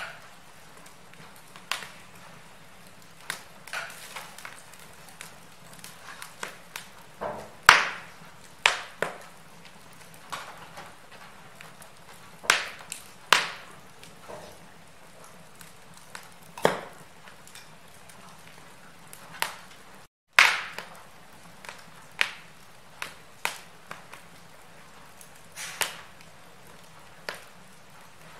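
Wood fire crackling in a fireplace: irregular sharp pops and snaps over a steady low hiss. The sound cuts out for a split second about two-thirds through, then comes back with one of the loudest pops.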